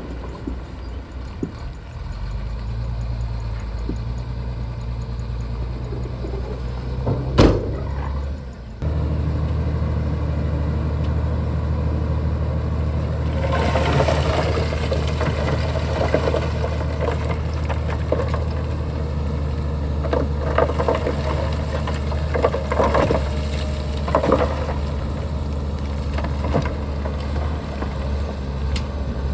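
Shantui bulldozer's diesel engine running steadily. There is one sharp knock about seven seconds in, and the engine sound steps up louder about nine seconds in. Irregular clattering and scraping runs over the engine through the second half.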